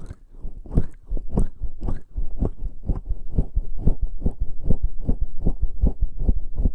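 Bare skin slick with lubricating jelly rubbing and pressing on a binaural microphone's ears, giving short wet strokes. They come irregularly at first, then settle about two seconds in into a steady rhythm of about four or five a second.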